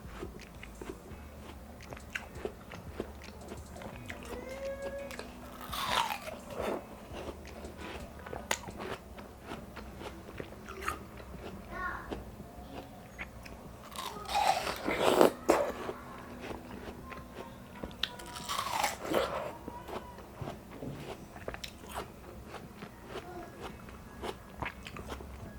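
Close-miked biting and chewing of juicy seedless watermelon: wet crunching bites and smacking chews. The loudest bites come about 6, 15 and 19 seconds in.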